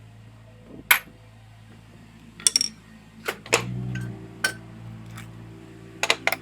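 Metal parts clinking and knocking, about eight sharp strikes spread out, over a steady low hum that gets louder about three and a half seconds in.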